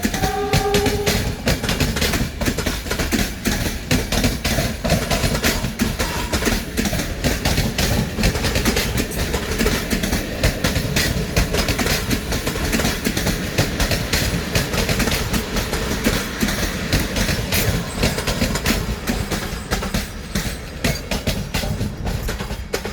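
Passenger train rolling into the station, its wheels clattering fast and steadily over rail joints and points. The noise eases off near the end.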